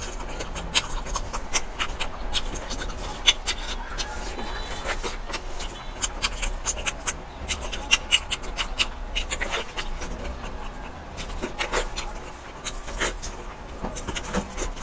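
A person eating close to the microphone: wet chewing and lip smacks, with many short irregular clicks.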